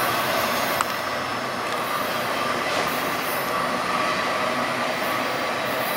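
A train rolling past on the rails, making a steady running noise with a faint high steady tone over it.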